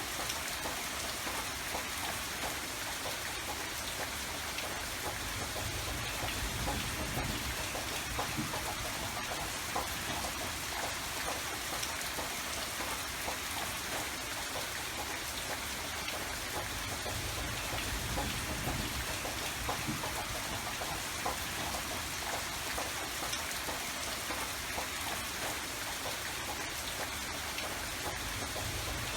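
Steady rain falling and pattering on surfaces, with a dense spread of small drop ticks and a soft low rumble underneath.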